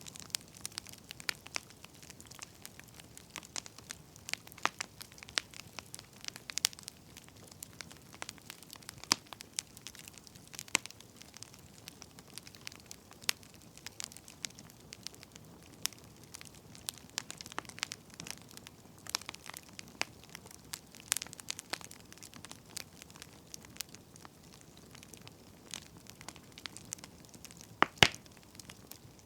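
Wood fire crackling: irregular sharp pops and snaps of burning firewood over a soft steady hiss, with a louder pop near the end.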